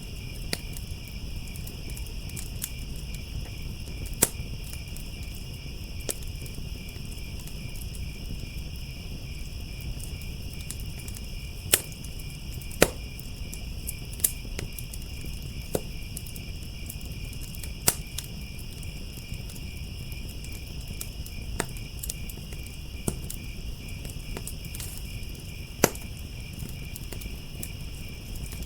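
Crickets chirping in a steady, high-pitched chorus over a low rumble, while a wood fire crackles with sharp pops every few seconds.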